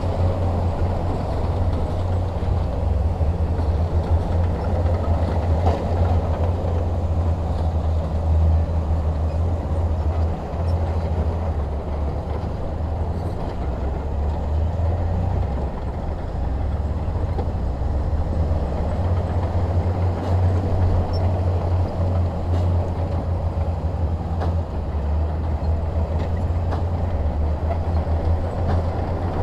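Heavy diesel engine of earthmoving machinery running steadily, a deep continuous rumble.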